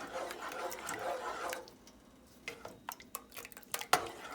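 A spoon stirring thickening sweet and sour sauce in a pot on the stove, with the sauce's wet bubbling and small clicks. The stirring stops for a moment past the middle, then resumes with scattered taps and a louder knock of the spoon near the end.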